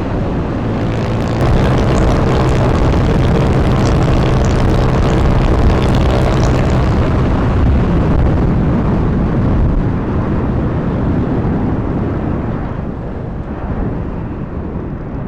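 Honda Wave 125 single-cylinder four-stroke motorcycle engine running under throttle while riding, with wind rushing over the microphone. The engine note rises about a second and a half in, holds steady, and eases off after about ten seconds.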